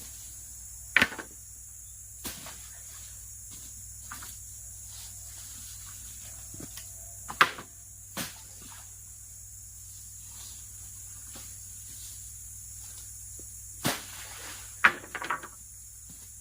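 Steady high-pitched chirring of forest insects, with a few short, sharp knocks and clicks from handling things at camp, the loudest about a second in, halfway through and near the end.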